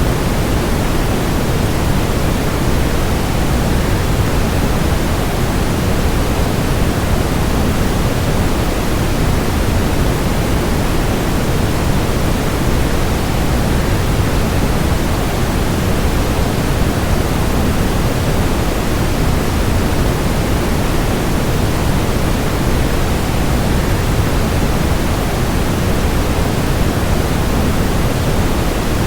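Waterfall rushing, a loud, even, unbroken noise with most of its weight in the low end and no changes or separate events.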